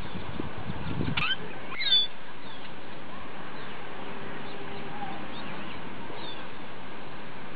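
Birds chirping now and then, short rising and falling chirps, the loudest about two seconds in, over a steady outdoor hiss. A brief low rumble comes in the first second or so.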